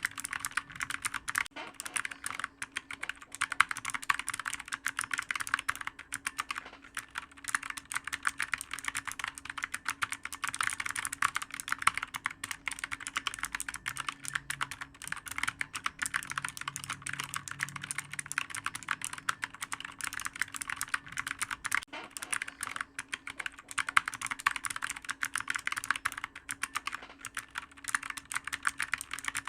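Computer keyboard typed on continuously, a dense, uneven run of clicky keystrokes.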